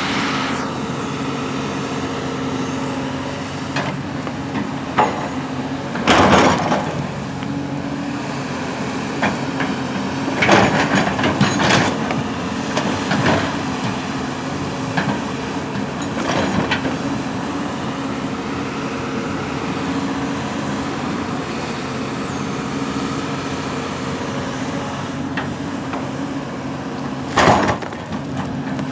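Diesel engine of heavy earthmoving machinery running steadily, with loud metallic clanks and scrapes several times, as of a bucket or steel parts knocking during digging work.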